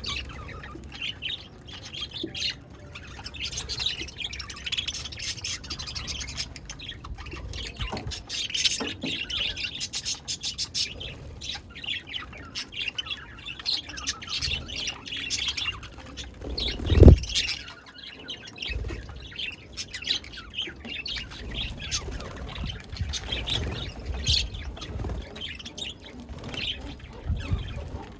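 Budgerigars chattering and chirping continuously in a rapid, warbling jumble, with one loud thump about 17 seconds in.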